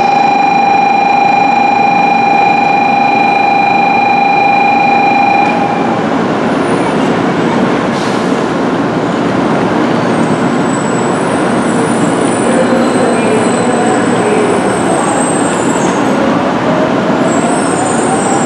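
700 series Shinkansen pulling into the platform and coming to a stop. A steady high-pitched whine cuts off about five seconds in, leaving the standing train's steady running noise, with a tone rising slowly over the last few seconds.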